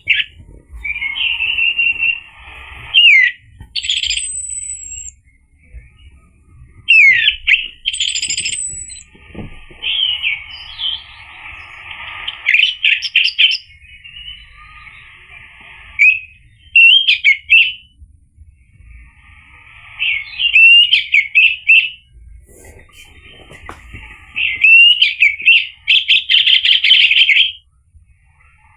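Orange-headed thrush singing: a run of varied, loud whistled phrases mixed with rapid trills and chattering notes, in bouts of a second or two with short pauses between.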